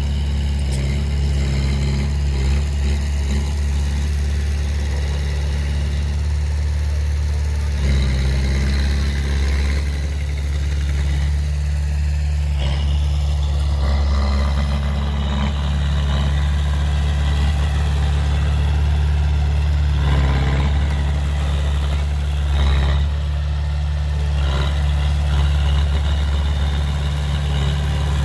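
Heavy diesel engine of earthmoving machinery running steadily, with brief shifts in load a few times.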